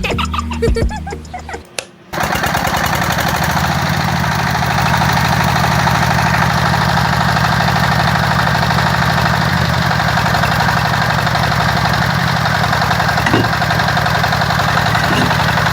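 Music for about two seconds, then a small engine starts running steadily with a fast, even pulse.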